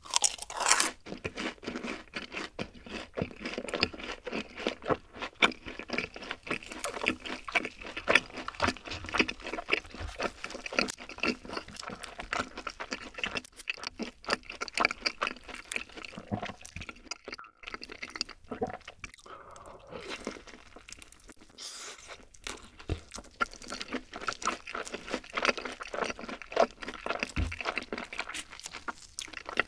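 Close-miked crunching and chewing of crispy honey-glazed fried chicken, a steady run of crackly bites with a few short pauses.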